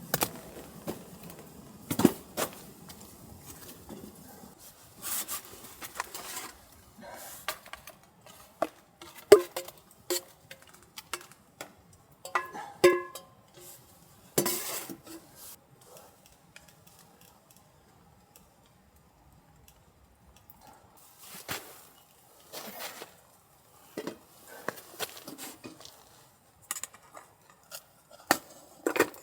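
Metal camp cookware and utensils being handled: scattered clinks and knocks with pauses between, and a few short metallic rings about twelve to thirteen seconds in.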